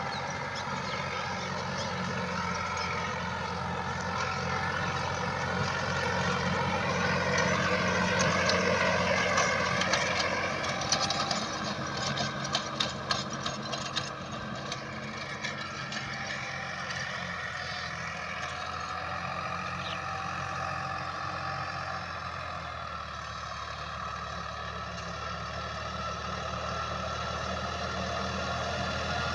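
Tractor engine running steadily while pulling a rotavator through dry soil, with a higher wavering whine over the low engine sound. It grows louder about a third of the way in, followed by a short run of sharp clicks.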